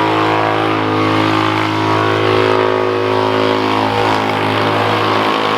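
Chevrolet Camaro SS's V8 engine held at steady high revs during a burnout, a constant, unwavering drone.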